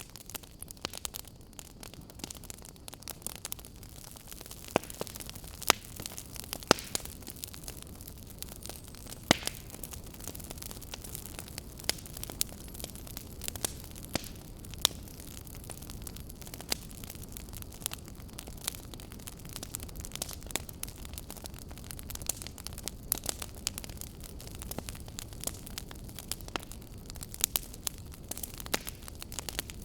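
Fire crackling: irregular sharp pops and snaps over a steady low hiss and rumble, with a handful of louder pops scattered through.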